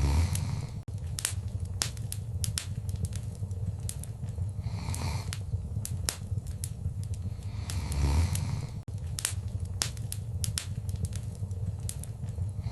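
Wood fire in a fireplace crackling, with many sharp irregular pops and snaps over a low steady rumble of flame. A couple of louder soft whooshes come near the start and about two-thirds of the way through.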